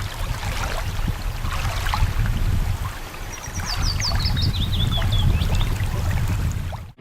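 Waterside ambience: a steady low rumble of wind and water, with scattered bird calls and a quick descending run of high chirps from about three to six seconds in. It cuts off abruptly at the end.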